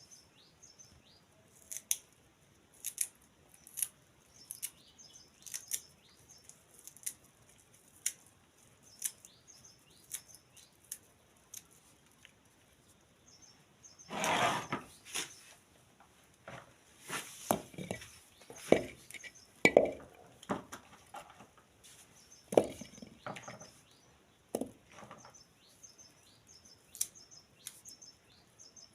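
Cooking utensils and dishes knocking and clinking, with birds chirping throughout. The knocks come about once a second at first, then after a louder noisy stretch about halfway through they come as a cluster of heavier knocks.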